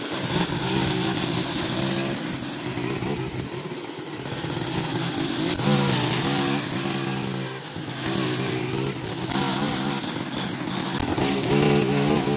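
Small gasoline engine of lawn equipment running continuously, its pitch rising and falling as the load changes.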